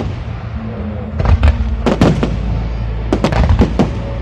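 Fireworks bursting in the air: sharp bangs in three quick clusters, about a second in, two seconds in and from about three seconds in, over music with a steady deep bass.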